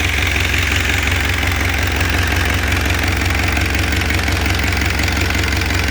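Rebuilt Isuzu C240 four-cylinder diesel engine idling steadily.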